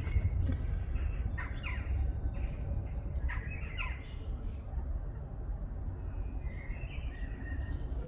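Small birds chirping with short, quick up-and-down calls, in several bursts, over a steady low rumble.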